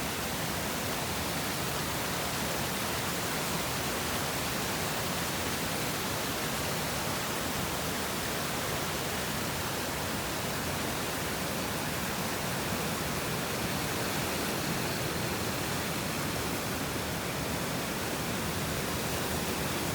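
Steady rushing of storm runoff flowing through the ground after the typhoon, an even wash of water noise that holds at one level throughout.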